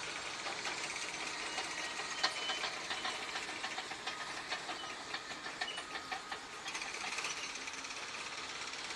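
Heavy earthmoving machinery working, a steady hissing machine noise with irregular clanks and knocks, most of them between about two and seven seconds in, the sharpest about two seconds in.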